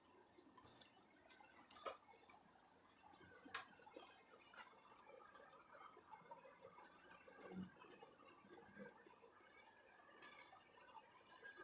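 Near silence with faint, irregular light clicks and ticks.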